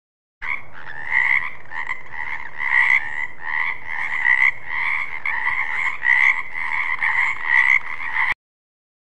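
Frog croaking, repeated calls coming about every 0.7 seconds. The sound starts and stops abruptly, as a cut sound-effect clip.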